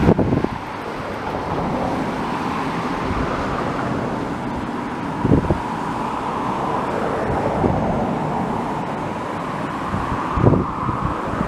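Steady rushing of a flood-swollen river, with wind buffeting the microphone in a few low thumps.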